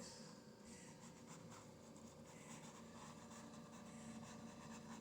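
Near silence with the faint scratchy rubbing of a paintbrush working acrylic paint on canvas, over a faint steady hum.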